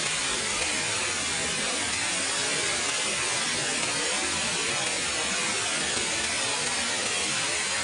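Steady rush of a large waterfall, water pouring and splashing without letup.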